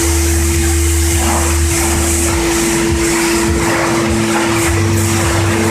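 High-pressure washer running: a steady pump and motor tone with a low hum underneath, and the hiss of the water jet swelling and fading as it sprays.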